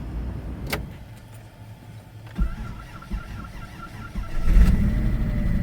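1993 Dodge Caravan's four-cylinder engine cold-started after sitting a week or two. It cranks briefly, catches about four and a half seconds in and settles into a steady idle. A click comes early, and a pulsing tone sounds before it catches.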